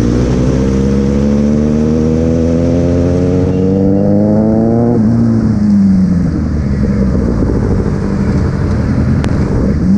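Motorcycle engine accelerating hard, its pitch rising steadily for about five seconds before the throttle closes and the revs fall away, leaving steady wind and road noise; near the end the engine picks up again briefly.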